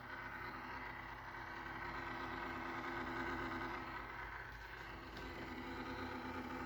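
HP Pavilion 15 laptop's cooling fan running with a steady hum made of several tones, swelling slightly in the middle. It is a replacement fan that the owner says is dragging and making noise again.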